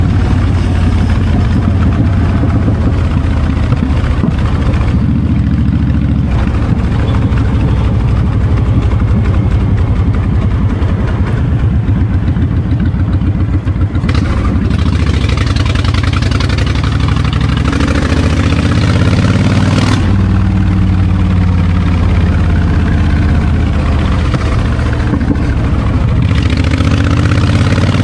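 Honda VTX 1300's V-twin engine through a raw, unmuffled exhaust, running with a deep pulsing beat and rising in pitch as it revs up a couple of times in the second half. Wind rushes over the microphone for several seconds about halfway through.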